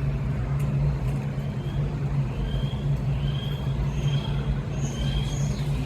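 Small birds chirping: short, high chirps repeating about once a second from about two seconds in, a few pitched higher near the end. Under them runs a steady low machine hum, which is the loudest sound.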